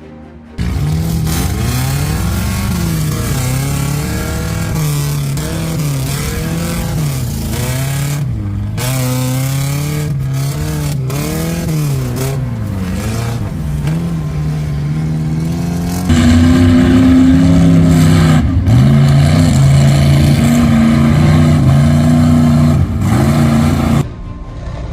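Mud bog truck engine revving hard, its pitch climbing and falling again and again. It starts abruptly and gets louder about two-thirds of the way in, then cuts off suddenly near the end.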